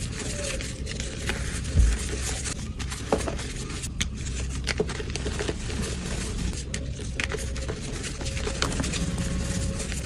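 Gym chalk being crushed and crumbled: a continuous dry, powdery crackle with many sharp crunches on top, the loudest about two seconds in.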